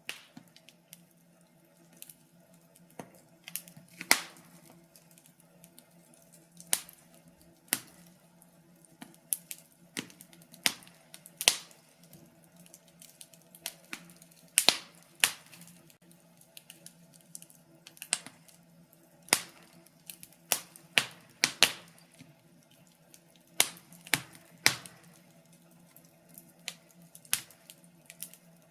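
Wood fire crackling: irregular sharp pops and snaps, a few much louder than the rest, over a faint steady low hum.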